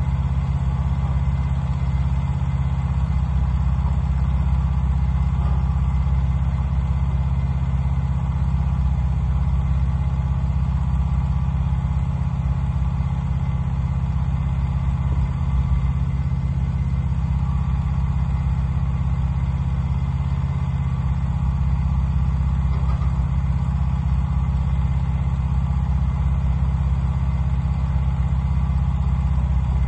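Wood-Mizer LT15 portable band sawmill running steadily, its engine holding an even, unchanging drone.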